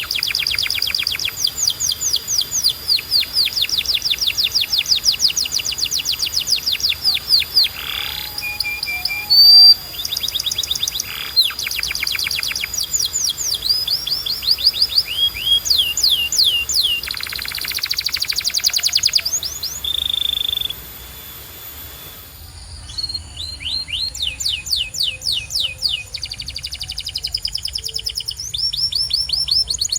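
Domestic canary singing: long rolling trills of rapidly repeated high notes, broken by short gaps, with a brief steady whistled note around twenty seconds in and a short lull just after.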